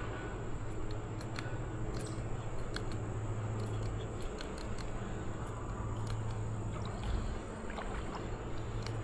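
Steady outdoor noise of creek water and breeze, with scattered light clicks and ticks from handling fishing gear.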